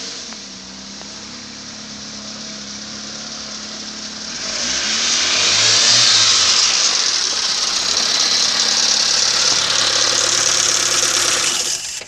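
2005 Proton Jumbuck's 1.5-litre four-cylinder petrol engine running on a test, in good order. It is heard first from the rear of the ute, then close over the open engine bay, where it becomes much louder with a strong whirring hiss from about five seconds in.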